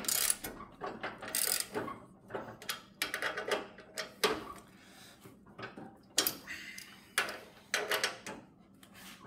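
Metal parts of a riding mower's deck lift lever being worked into place, scraping and clanking in irregular bursts.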